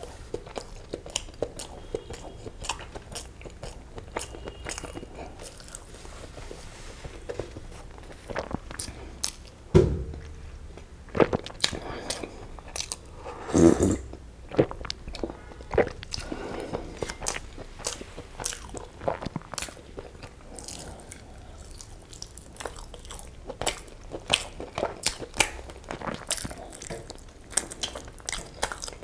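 Close-miked chewing and lip smacking of egg biryani and chicken curry, with many small wet clicks from the mouth. About ten seconds in there is a dull thump, and a little later a few seconds of gulping pomegranate juice from a glass.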